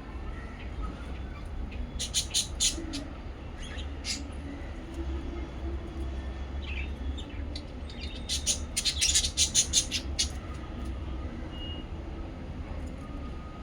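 Small pet parrots chirping: a quick run of sharp chirps about two seconds in and a longer, louder run around eight to ten seconds in, over a low steady hum.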